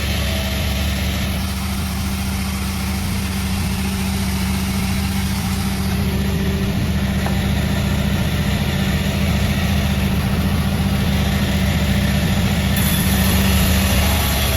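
Sawmill machinery running steadily, its engine giving a continuous low drone with a wide hiss of noise over it.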